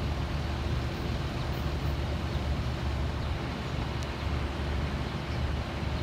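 NJ Transit commuter train pulling away down the line, a steady low rumble that carries on without a break.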